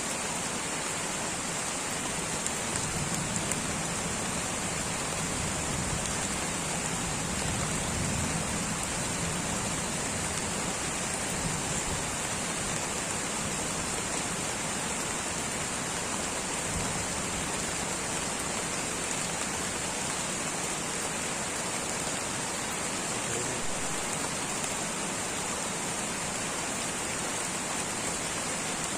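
Light rain falling steadily on rainforest foliage, an even hiss of many drops.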